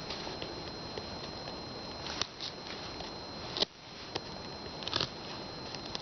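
Knife blade cutting a notch into a wooden hand-drill fireboard: a few light clicks and scrapes over a steady hiss.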